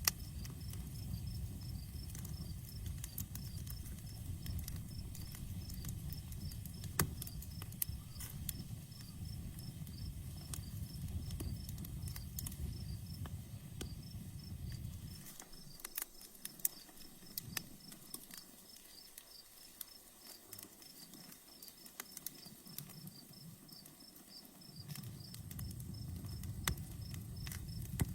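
Outdoor wood campfire crackling, with frequent sharp pops and snaps, over a steady, regular chirping of crickets. A low rumble under it drops away for about ten seconds in the middle and then returns.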